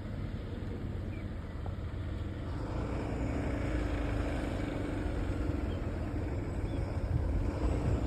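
Traffic noise from a large road vehicle coming up from behind, its engine and tyre rumble growing steadily louder as it approaches.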